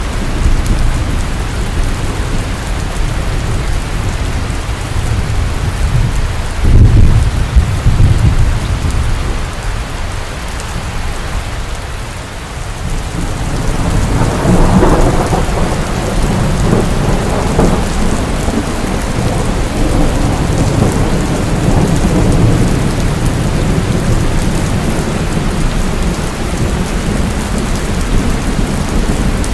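Rain falling steadily with thunder: a loud low rumble about seven seconds in, and a longer rolling rumble that swells from about halfway through.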